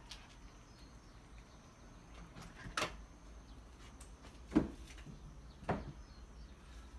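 Three short knocks or thumps, a second or two apart, the middle one loudest.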